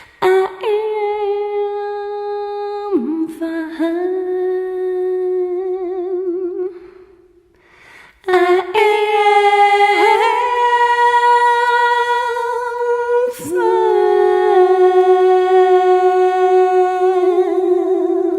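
A woman humming long, held notes with vibrato, unaccompanied, pausing for about a second after the first few notes before carrying on.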